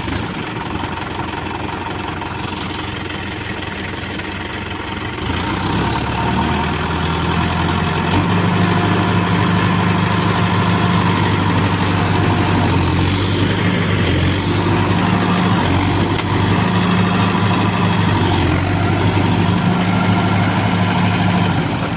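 Tractor diesel engine running. It gets louder about five seconds in and again around eight seconds, then holds steady, as a tractor working under load would.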